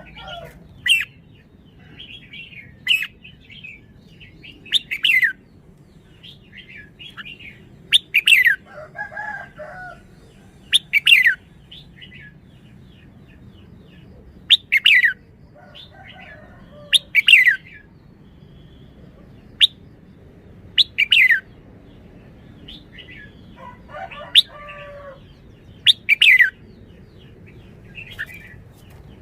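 Red-whiskered bulbul calling in short, sharp, falling phrases, repeated every two to three seconds.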